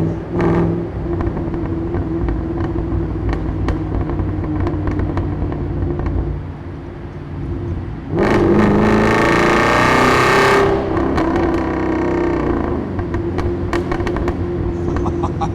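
Straight-piped 2005 Ford BA XR8 ute's Boss 260 V8, heard through a microphone at the exhaust, running under steady throttle. It eases off about six seconds in, then opens up hard for about two and a half seconds with its pitch rising, and drops back to a steady run.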